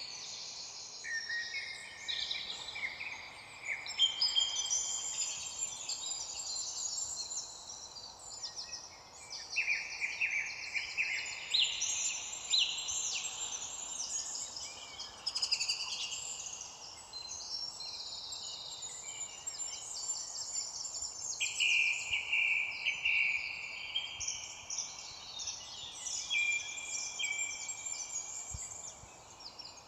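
Several songbirds singing and chirping at once, a dense, continuous chorus of overlapping high trills and chirps over a faint background hiss.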